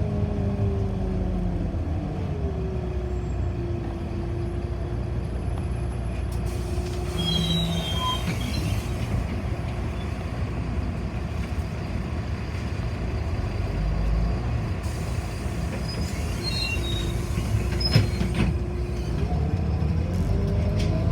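City bus heard from inside the cabin while under way: low road rumble with a drive whine that falls in pitch as the bus slows, holds steady, then rises again near the end as it speeds up. A sharp knock sounds about 18 seconds in, with faint high squeaks here and there.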